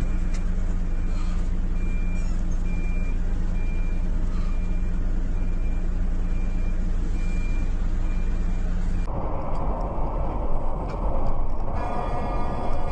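A heavy vehicle's diesel engine runs steadily while its reversing alarm beeps over and over, about once a second. About nine seconds in, the sound cuts to a different, rougher machine noise, and near the end a stack of steady tones comes in.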